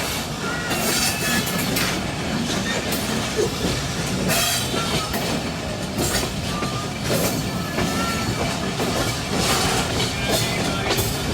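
Passenger train running along the track, heard from on board: a steady rumble with the wheels clacking over rail joints at irregular intervals and several brief, high wheel squeals.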